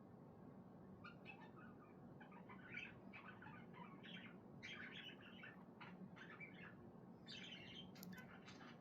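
Pet budgerigar chattering faintly, a soft run of quick chirps and warbles starting about a second in, the quiet chatter of a budgie resting.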